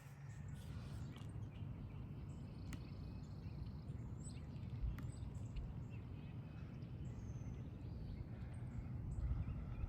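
Faint outdoor ambience: a steady low rumble with a few brief, faint high chirps from birds.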